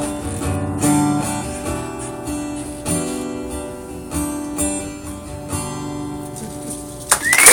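Acoustic guitar strumming the song's closing chords, each left to ring and the playing fading gradually. Applause breaks out suddenly at the very end.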